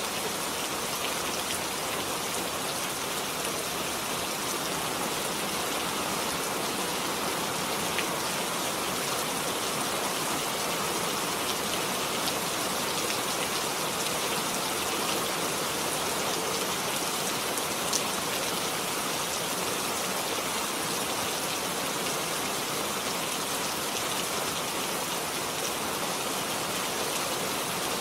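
Steady rain falling, an even hiss of drops on a surface with a few sharper individual drops.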